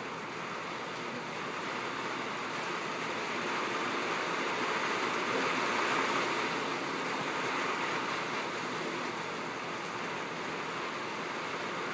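Steady rain drumming on a tin roof, swelling a little heavier in the middle before easing slightly.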